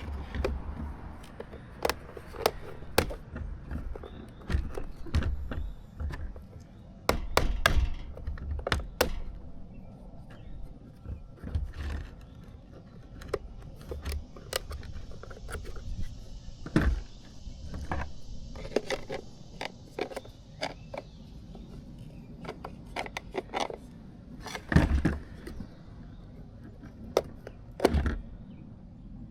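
Hand work on a workbench: irregular clicks, taps and knocks of tools and small parts being picked up and set down, with a few heavier thumps and a faint hiss for several seconds about midway.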